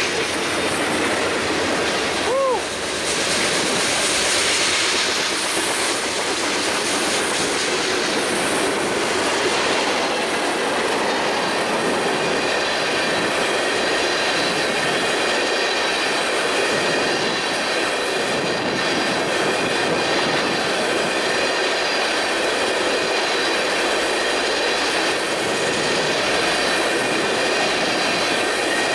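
Freight train passing close by, its boxcars and tank cars rolling steadily over the rails with a continuous wheel-on-rail rumble. In the second half a faint, steady, high-pitched wheel squeal runs through it.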